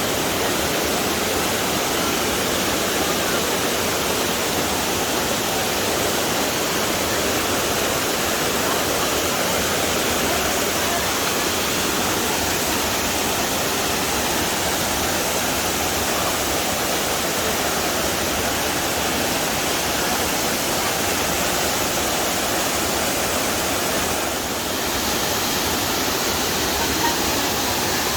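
Waterfall pouring steadily into a pool, a constant close rush of water.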